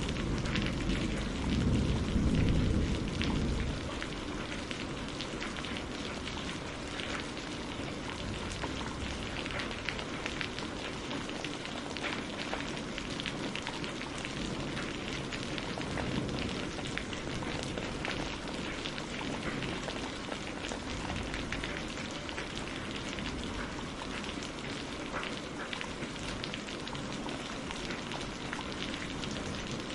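Steady rain with many individual drops pattering, and a low rumble of thunder that dies away after the first three or four seconds.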